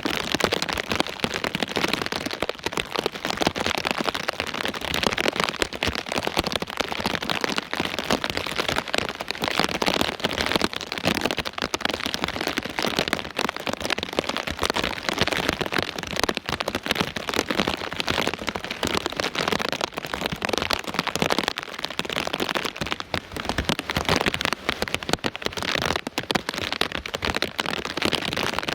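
Heavy rain falling hard and steadily, a dense, even patter of countless drops striking nearby surfaces, close to the microphone.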